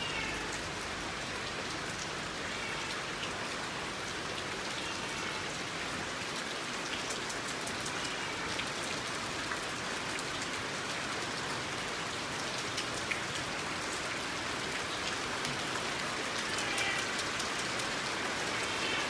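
Steady rain falling and pattering on surfaces, with a few faint, short high-pitched calls now and then.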